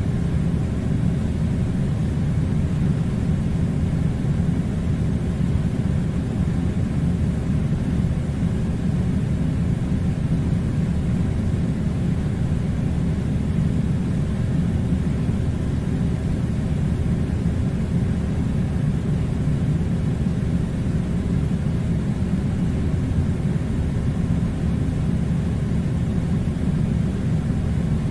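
Air conditioner running: a steady low rumbling hum with a faint hiss, unchanging throughout.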